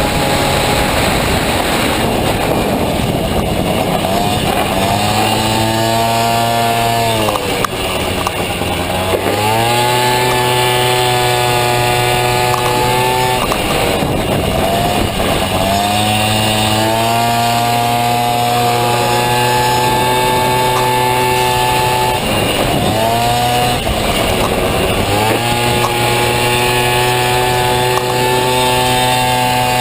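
Honda Motocompo's Dio scooter engine running hard at high revs with a buzzing note. The revs drop off and climb back up several times, as the throttle is eased and reopened for corners.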